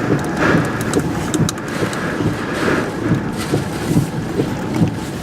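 Hurricane Florence's wind gusting hard against the microphone, with rain, making a steady loud rush broken by irregular low buffeting thumps.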